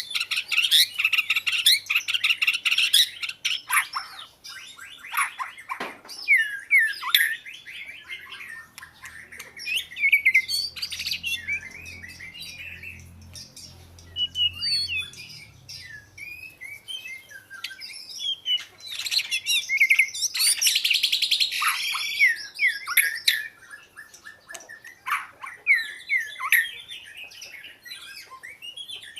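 Oriental magpie-robin singing: a varied run of short whistled notes and slurs mixed with harsh, scratchy calls, with dense bursts of rapid chattering at the start and again about two-thirds of the way through.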